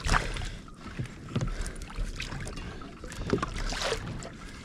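Water slapping and splashing against a kayak's hull in irregular surges, with wind rumbling on the microphone.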